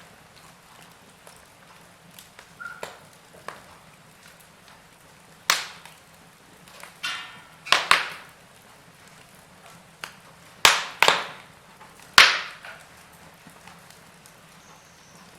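Wood fire crackling in a fireplace: irregular sharp pops and snaps over a low, steady background, with a short hiss just before two pops in quick succession about halfway through.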